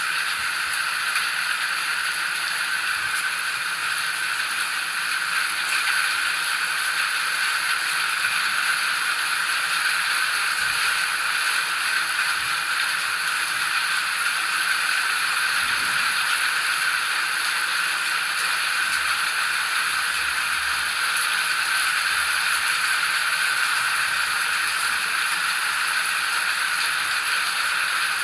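Steady rain, an even hiss that keeps on without pauses.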